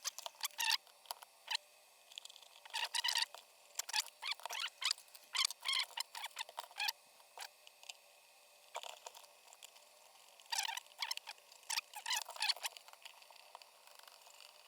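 Small plastic and metal parts of an electric kettle being handled and fitted together: irregular light clicks, taps and scrapes in clusters, with a pause of a couple of seconds midway.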